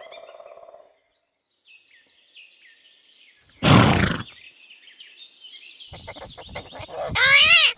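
Pony sounds: one short, loud snort about four seconds in, with a short high call near the end. Small birds chirp faintly in the background.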